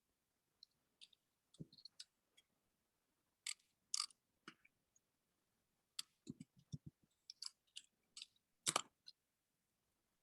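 Irregular soft clicks and taps of keyboard typing, with a quick run of knocks about six seconds in.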